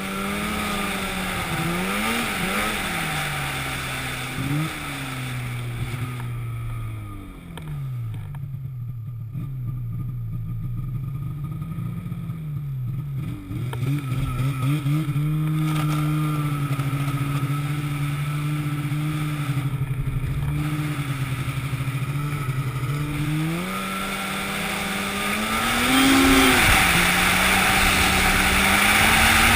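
An engine running, its pitch rising and falling as it is revved and eased off, then holding steady; a hiss grows louder near the end.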